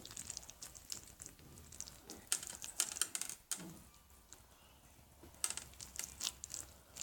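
Homemade slime being squeezed and poked by hand: runs of small sticky clicks and crackles, heaviest in two clusters, one in the middle and one near the end.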